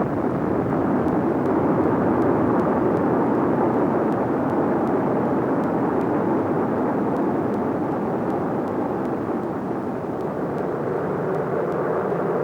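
Steady, jet-like roar of Kilauea's lava fountain in eruption, a continuous rushing noise with no breaks. A faint rising whistle comes in near the end.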